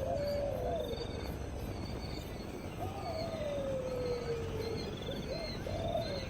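An animal giving long, wavering, low-pitched calls, one after another, one sliding slowly down in pitch over about two seconds. Faint high chirps repeat in the background.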